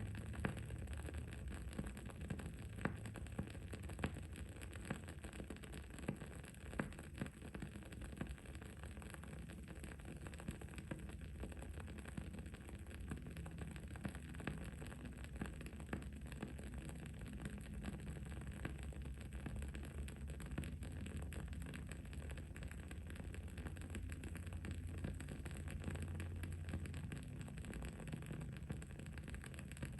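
Wood-wick candle burning with frequent small, irregular crackles and pops, a few sharper than the rest, over a steady low background hum.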